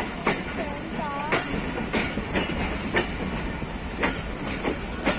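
Passenger train rolling slowly through a station, heard from aboard a coach: wheels clack over rail joints about twice a second over a steady rumble, with a few brief squeals.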